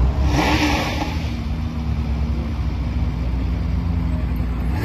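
Widebody Nissan GT-R's twin-turbo V6 running at low speed as the car rolls by slowly, a steady deep exhaust drone. A brief hissing rush comes about half a second in.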